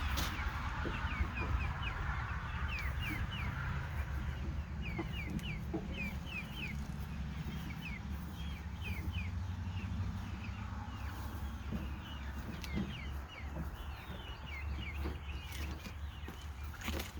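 Birds chirping in quick series of short, sharp notes, over a steady low rumble.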